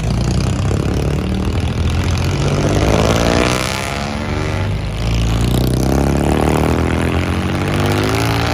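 Cars driving out one after another, a steady low engine rumble with engines pulling away at rising pitch about three seconds in and again from about six seconds.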